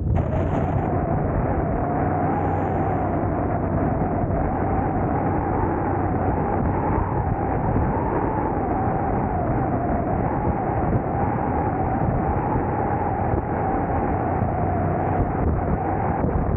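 Vehicle on the move: steady road and wind noise with a slightly wavering, mid-pitched whine held throughout.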